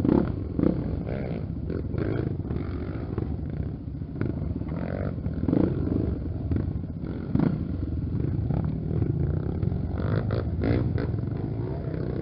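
Honda XR Tornado trail motorcycle engine running, its revs rising and falling with several sharp throttle surges.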